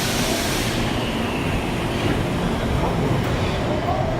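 Tokyo Metro 02 series subway car heard from inside, with a steady low rumble of the train on the rails. A burst of air hiss sounds in the first second, and a faint whining tone comes in near the end.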